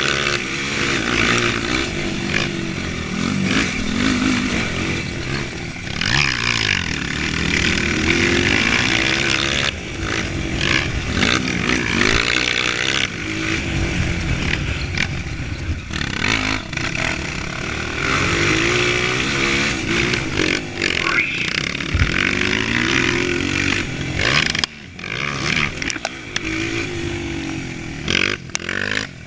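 Honda CRF230 dirt bike's single-cylinder four-stroke engine revving up and falling back again and again as the bike is ridden, with short dips in loudness near the end.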